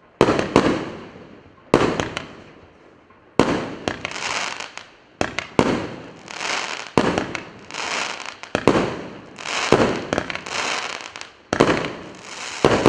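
'Eighth Wonder of the World' firework battery going off. Sharp bangs come roughly every one and a half seconds, some in quick pairs, and each is followed by a fading hiss from the burst.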